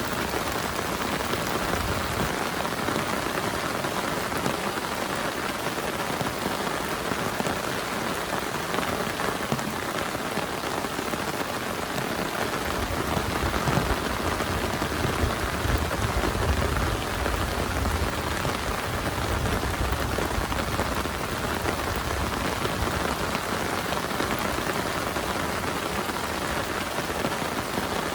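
Heavy rain falling steadily with a dense, even hiss. About halfway through, a low rumble swells for several seconds and then fades back under the rain.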